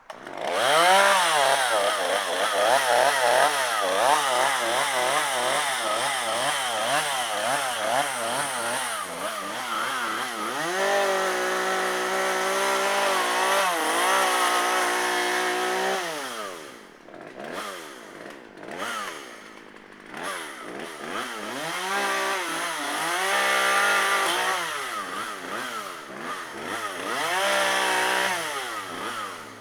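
Poulan two-stroke chainsaw running after repair: about a dozen quick throttle blips up and down, then held at high revs for a few seconds, then dropping to an uneven idle and revved up and down again several times before falling back near the end.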